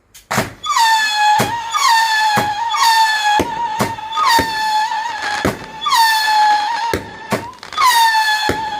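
Firework whistling: a steady, high, shrill whistle that starts about a quarter second in and keeps breaking into short falling swoops, with sharp cracks scattered through it.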